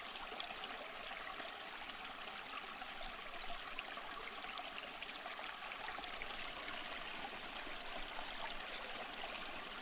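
Steady rush of falling water from a waterfall, a continuous, even splashing sound that is mostly bright and high with little deep rumble.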